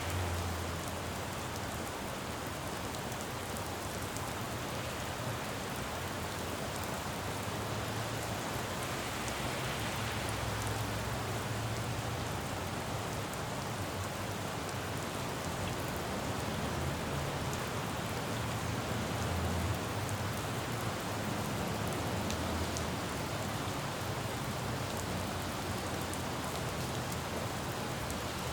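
Steady rain falling on a road, with the low rumble of passing traffic swelling and fading now and then underneath.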